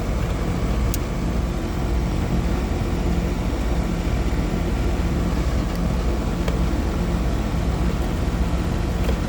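Central air conditioner's outdoor condenser running steadily, compressor and condenser fan both going, a low steady hum under the fan's rush. It is running normally on a newly fitted run capacitor and hard-start kit, after the old capacitor had bulged and failed so that the unit would not start.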